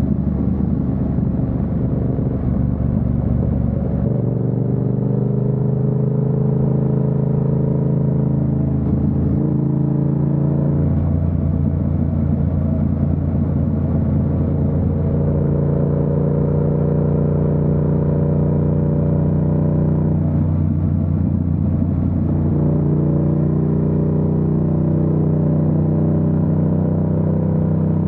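Yamaha MT-07's parallel-twin engine running steadily under way, its pitch stepping to a new engine speed about 4 seconds in, again near 10 seconds, and once more around 21 to 22 seconds.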